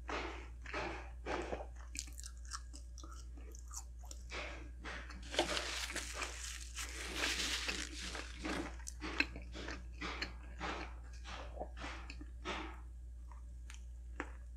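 Close-miked eating of fast food: repeated chewing with crunchy bites, and a denser stretch of crunching about five to eight seconds in.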